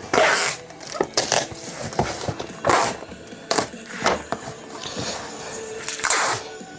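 Packing tape being pulled off the roll in short, loud rips, about six of them at uneven intervals, while parcels are taped up.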